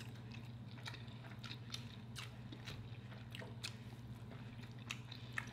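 Faint eating sounds: scattered soft mouth clicks and chewing from people eating a burrito and a burrito bowl, over a steady low hum.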